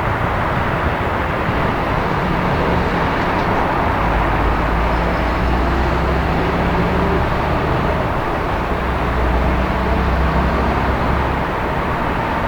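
City traffic noise at night: a steady rush of vehicles with a low engine drone that comes in a few seconds in and holds.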